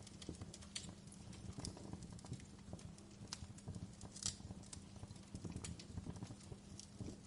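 Wood fire crackling in a fireplace: irregular sharp pops and snaps over a low, steady rumble, with the loudest snap about four seconds in.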